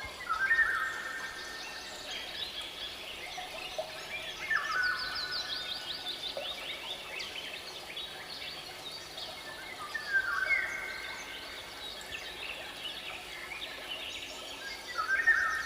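Birds singing over a faint steady background: a whistled phrase recurs four times, about every five seconds, with a rapid descending trill from another bird about five seconds in.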